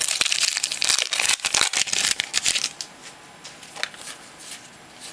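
Crinkling of a trading-card pack wrapper and cards being handled. The crinkling is dense for the first two and a half seconds or so, then turns to fainter rustles.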